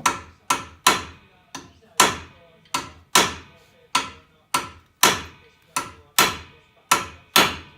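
Hammer striking metal, about two to three blows a second, each blow ringing on. It is typical of hammering at seized brake caliper guide pins on a Volkswagen T4's front brake.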